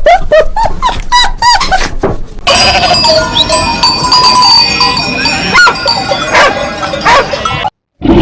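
Animal calls: a fast run of short, repeated squawking calls, then an abrupt change about two and a half seconds in to other animal sounds over a steady high ringing tone. The sound cuts out briefly near the end.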